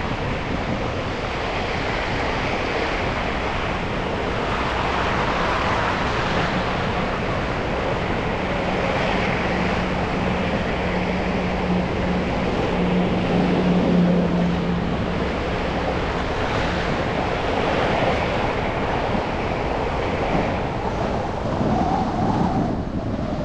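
Car driving through city traffic on snow-wet streets: a steady hiss of tyres on wet pavement. A low engine hum swells through the middle and then fades.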